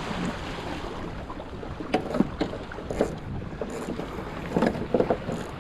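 Water slapping and splashing against a small sailing dinghy's hull as it sails, with wind rushing over the microphone; irregular knocks and splashes, the clearest about 2, 3 and 5 seconds in.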